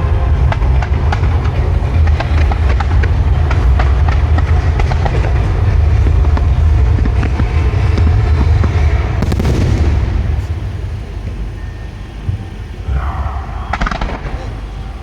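Aerial fireworks bursting: rapid crackling and banging over a deep continuous rumble, thinning out after about ten seconds to a few scattered bangs.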